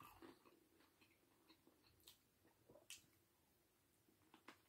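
Faint chewing of a tortilla chicken wrap, a few soft mouth clicks over near silence.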